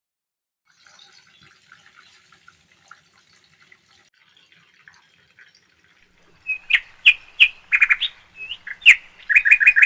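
Birds chirping: faint, scattered twittering at first, then a run of loud, sharp chirps in the last few seconds, with a quick string of repeated notes near the end.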